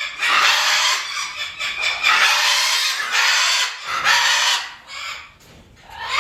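Large parrots squawking in an aviary: a string of four or five loud, harsh screeches, one after another, dropping off to a quieter stretch near the end.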